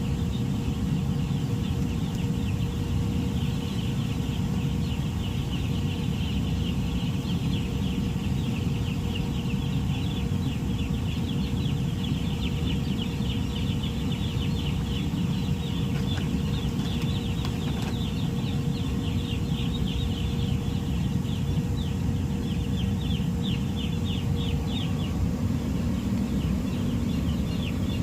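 A flock of broiler chickens peeping and cheeping continuously, many high calls overlapping, over a steady low hum.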